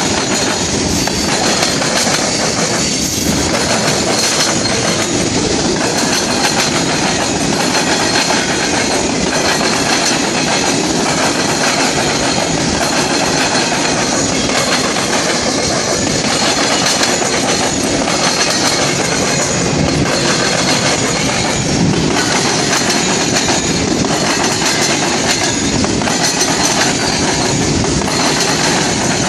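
Norfolk Southern manifest freight train's cars rolling past: a steady, loud rumble of steel wheels on the rails, with repeated clicking as the wheels cross rail joints.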